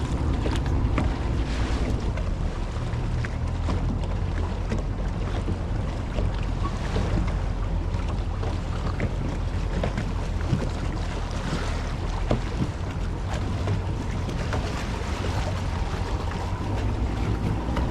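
Motorboat running on the water, its engine a steady low rumble, with wind buffeting the microphone.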